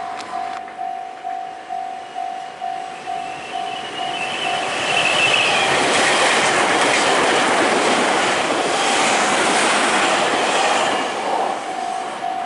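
Japanese level-crossing warning bell ringing in steady pulses, about three a second. A train then passes at speed: the rush of wheels on rails grows loud about four seconds in and covers the bell, which is heard again near the end.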